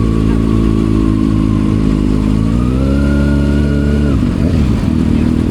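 Kawasaki ZX6R inline-four engine through an M4 aftermarket exhaust. The engine note holds steady, rises about two and a half seconds in and holds higher, then drops away suddenly just after four seconds in as the throttle is closed, falling back to a lower, rougher note.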